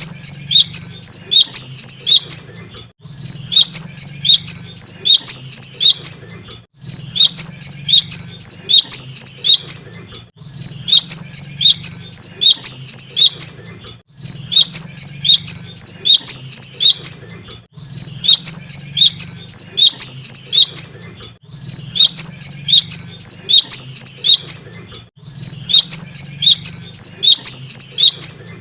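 Cinereous tit (gelatik batu) singing: phrases of rapid, high, repeated chirping notes about three seconds long, broken by short pauses and repeating evenly about every three and a half seconds. A low hum sounds under each phrase.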